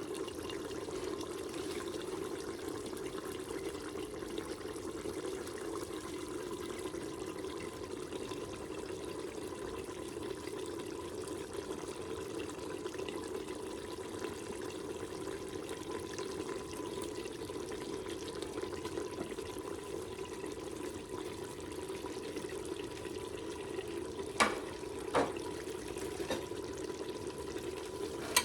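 Pork cooking in a pot on the stove, a steady bubbling hiss. Near the end come two sharp knocks, less than a second apart.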